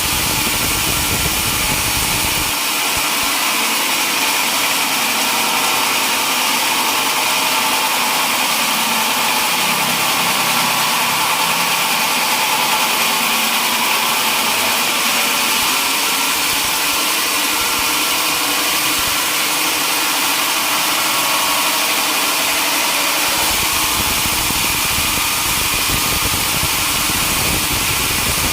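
Sawmill machinery running steadily with a loud, even mechanical noise. The deepest part of the sound drops away a couple of seconds in and comes back shortly before the end.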